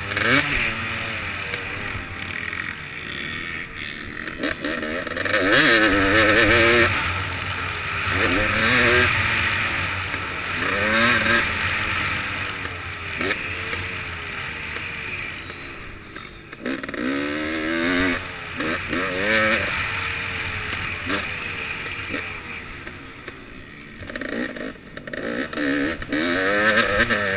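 KTM 300XC two-stroke dirt bike engine revving up and shutting off over and over, its pitch rising and falling every couple of seconds as it accelerates and brakes around a motocross track.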